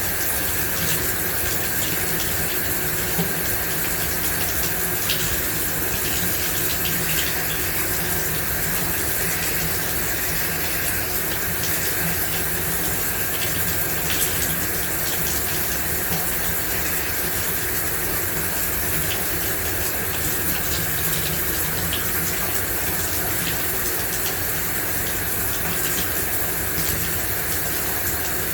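Shower running steadily, an even hiss of water spray with faint scattered drips and ticks.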